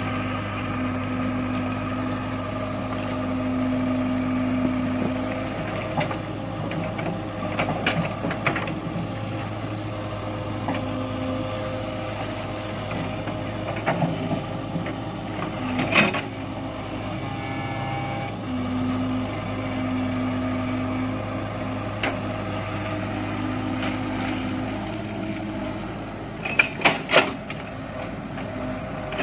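Excavator engine running steadily under load while it digs, with a few sharp knocks, three in quick succession near the end.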